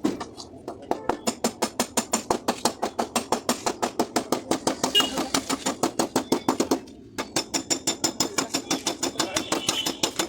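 Paintless dent repair on a car door panel: a steady run of quick light hammer taps, about five a second, stopping briefly about seven seconds in and then starting again.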